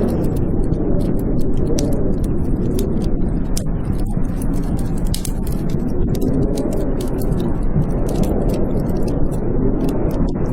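Blizzard wind howling in slow swells and fades, with a wood fire crackling in frequent sharp pops and snaps over it.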